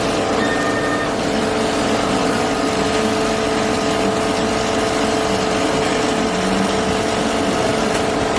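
A machine motor running steadily, a loud constant drone with two steady hum tones.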